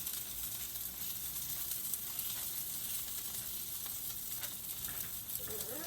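Food frying in a crowded frying pan: a steady sizzle with light crackles. Near the end a drawn-out, pitched call begins.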